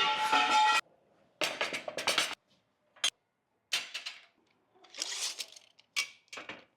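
A string of about six short bursts of clinking and clattering, each cut off abruptly with silence between them. The first burst has a steady metallic ring.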